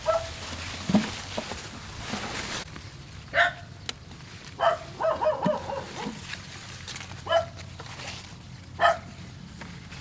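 A dog barking: a handful of short, sharp barks spread over several seconds, with a quick run of yaps in the middle.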